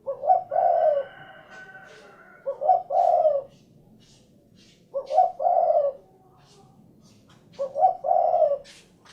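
Spotted dove (tekukur) cooing: four call phrases about every two and a half seconds, each a short note followed by a longer rolling coo.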